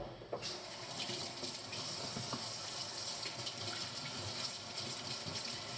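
Kitchen tap running, a steady rush of water that starts abruptly about half a second in.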